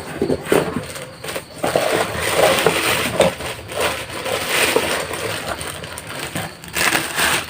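Packaging rustling and crinkling as it is handled close to the microphone, with irregular bursts of crackle that swell and fade.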